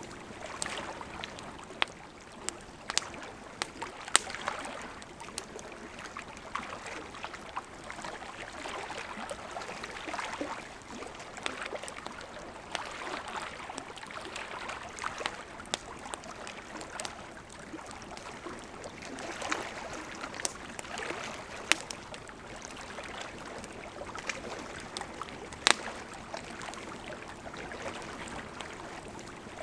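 Campfire of burning wood crackling, with a soft rushing hiss that swells and fades and frequent sharp pops and snaps, a few louder ones scattered through.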